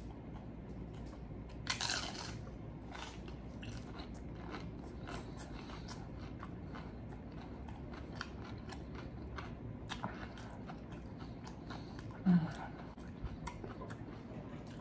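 Close-up crunching and chewing of crisp chips loaded with shrimp ceviche, with a louder bite about two seconds in and many small crackles as it is chewed. A short low hum comes near the end.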